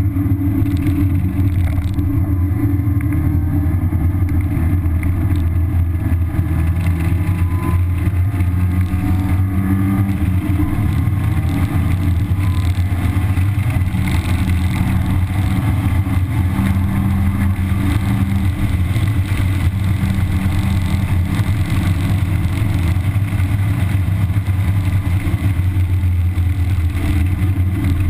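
1991 Mazda Miata's 1.6-litre four-cylinder engine on stock exhaust, driven hard on a racetrack and heard from inside the cabin: a loud, deep drone whose pitch rises and falls every few seconds with the revs.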